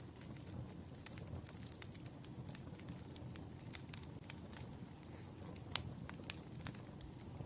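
Wood fire crackling: irregular sharp pops and snaps over a low steady rumble, with one louder pop about three-quarters of the way through.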